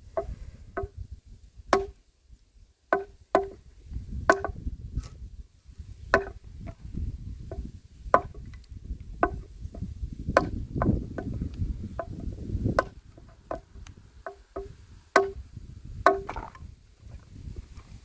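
Handmade axe chopping wood, a sharp strike about once a second, each with a brief pitched ring, over a low rumbling noise.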